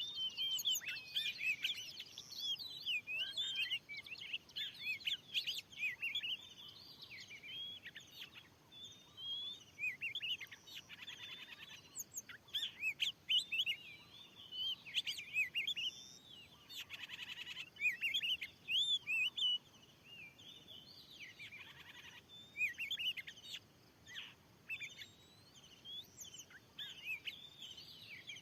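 Oriental magpie-robins (kacer) singing a rapid, varied run of whistles and chirps, broken several times by short harsh rasping calls. This is the aggressive territorial song of a wild kacer answering a decoy bird.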